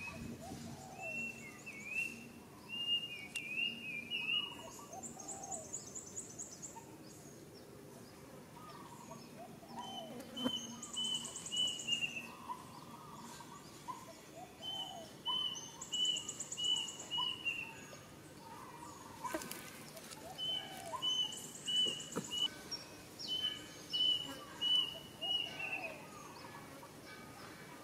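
Birds chirping: runs of short repeated notes, with a higher buzzing trill about every five seconds.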